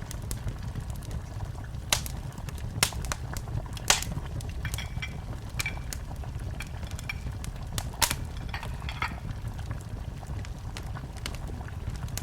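Wood fire burning in a fireplace: a steady low rumble of flames with irregular sharp crackles and pops, the loudest about 2, 4 and 8 seconds in.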